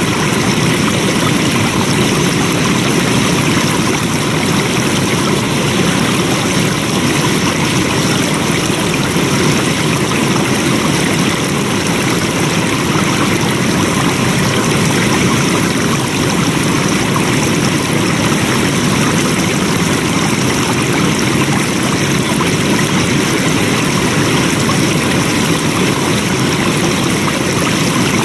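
Flowing stream water rushing steadily, an even, unbroken sound.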